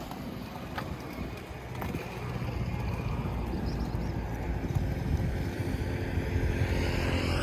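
BMW G 310 R single-cylinder motorcycle engine running at road speed, with wind rushing over the microphone, growing steadily louder.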